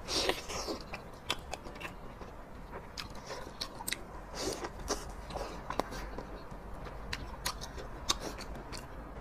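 Close-miked biting and chewing of a soft egg pancake wrapped around noodles, with a bite right at the start, then steady chewing full of short wet mouth clicks and smacks.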